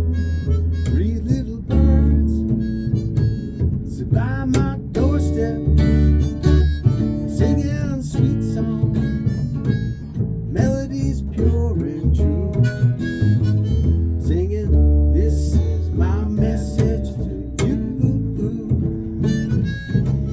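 Live harmonica playing a melody with bent notes over acoustic guitar accompaniment, an instrumental passage with no singing.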